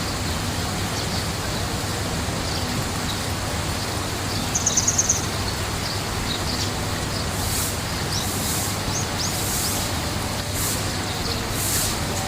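Small birds chirping, with a quick trill of about seven notes a little over four seconds in and a few short rising chirps later, over a steady rushing noise.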